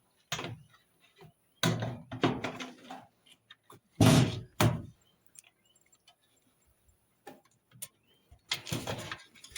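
Several short bursts of knocking and rattling from the dryer's cabinet being fastened back together, each lasting under a second, with the loudest about four seconds in.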